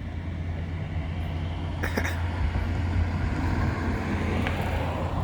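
A vehicle engine running steadily, a low rumble that slowly grows louder. A brief sharp sound cuts in about two seconds in.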